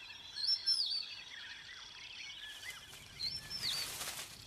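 Natural ambience of birds calling in short whistled notes that rise and fall, over a steady high insect trill. The bird calls come about half a second in and again around three seconds in.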